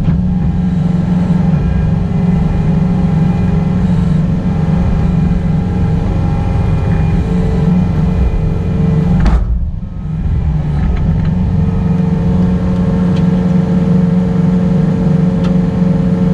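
Excavator's diesel engine running steadily under work, with a sharp knock about nine seconds in and a brief drop in the engine sound just after.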